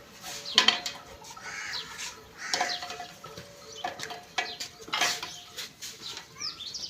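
Birds calling and chirping over scattered short knocks and clinks.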